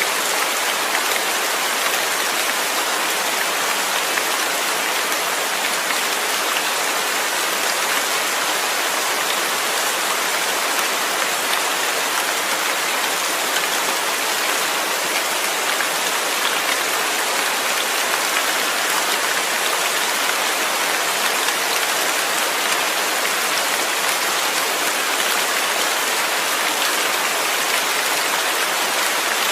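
Steady rain, a dense even hiss of drops falling on a surface.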